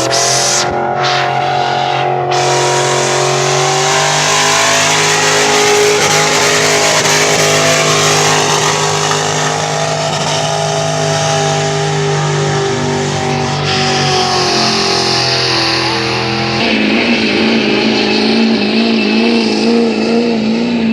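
Truck-pulling truck's engine running hard at high, fairly steady revs. About seventeen seconds in, the note changes abruptly to a higher, wavering pitch.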